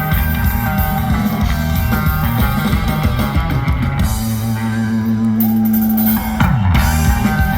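Rock band playing live with drum kit, electric bass and guitar. About four seconds in, a low note is held for a couple of seconds, then slides sharply down in pitch.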